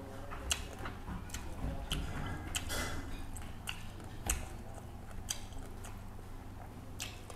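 A person chewing a mouthful of fish curry and rice close to the microphone, with irregular sharp wet clicks and smacks every half second to a second over a steady low hum.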